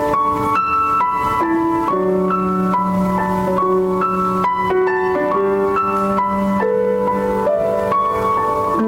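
Instrumental keyboard music in a piano sound: a slow melody of single notes over a held low note, playing steadily through.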